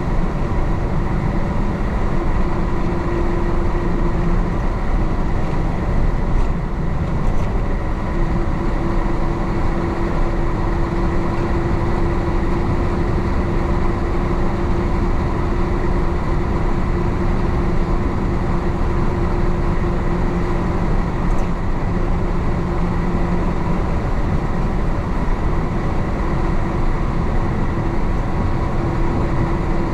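1966 Isuzu BXD30 bonnet bus's DA640 diesel engine running steadily under way, a constant droning tone with road noise.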